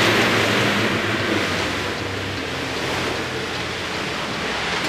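Steady rush of water and wind around a moving fishing boat, with the low hum of its engine underneath.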